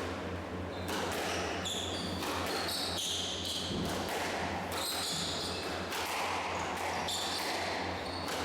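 Squash rally: the ball smacks sharply off rackets and walls about once a second, with shoes squeaking on the court floor between the hits.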